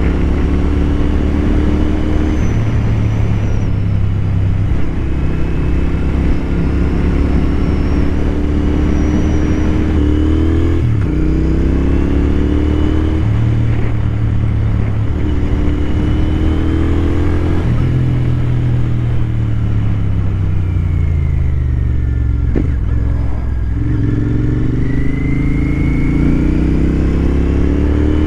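Royal Enfield Continental GT 650's parallel-twin engine under way, climbing in pitch and dropping back at gear changes about 11 and 13 seconds in, slowing for several seconds past the middle, then pulling away again near the end. Wind noise rushes over the microphone throughout.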